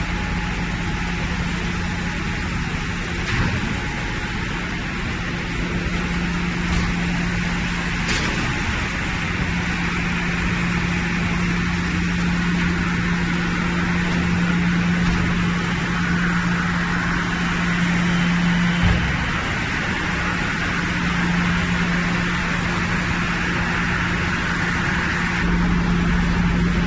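Heavy machinery running steadily, with a constant low hum under a continuous mechanical noise and a few faint knocks.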